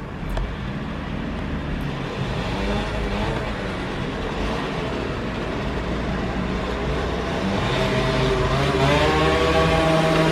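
A motor vehicle's engine running over a steady low traffic rumble, growing louder and bending slightly in pitch over the last few seconds as it draws near.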